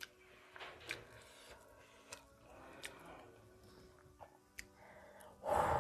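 A person slurping in a strand of spicy noodles and chewing, with small wet clicks of the mouth. Near the end, a loud breathy gasp.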